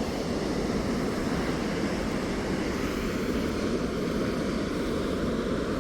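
Steady rush of a large volume of fast white water pouring through Huka Falls.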